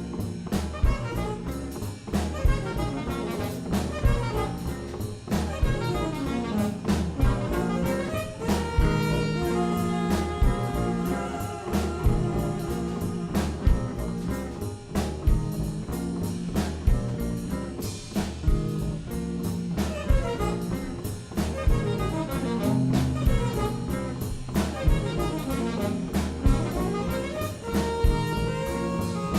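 Jazz band playing: a drum kit keeps a steady beat under a bass line, and horns come in holding long notes about a third of the way through.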